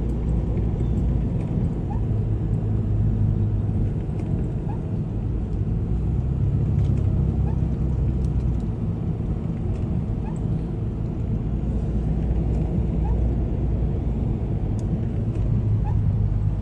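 Car engine and road noise from inside a slowly moving car: a steady low rumble whose engine note shifts a few times.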